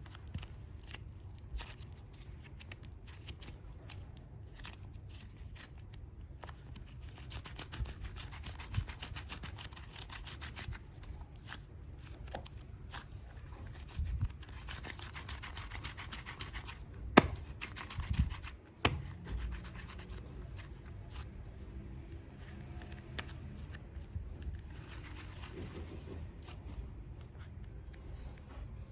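Hands unpacking and handling super clay: rubbing and handling noise with many scattered light clicks, and a sharper click about 17 seconds in and another near 19.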